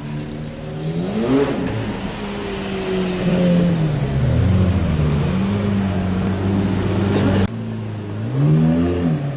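Lamborghini Murciélago's V12 engine revving as the car moves off at low speed. The pitch rises about a second in, holds fairly steady, and there is another rise near the end.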